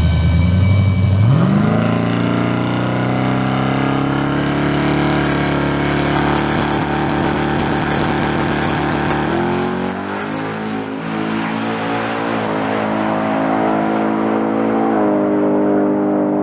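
Drag-racing pickup truck's engine at full throttle on a pass: it comes in suddenly and the note climbs sharply over the first couple of seconds, then holds high and steady, with abrupt changes in pitch about nine and fifteen seconds in.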